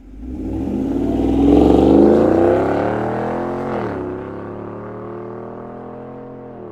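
6.2-litre V8 exhaust through an AWE 0FG true-dual catback accelerating, its note rising in pitch and loudest about two seconds in. Just before four seconds in the pitch drops sharply with an upshift, then the engine pulls on more quietly with the pitch climbing slowly again.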